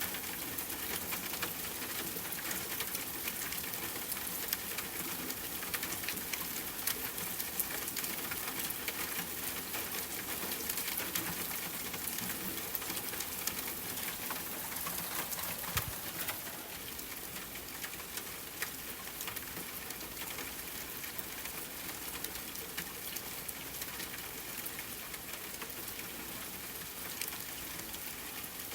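Steady rain pattering on a tent's fabric, a dense hiss full of small drop ticks. There is a single louder tap about halfway through, and the rain grows a little softer after it.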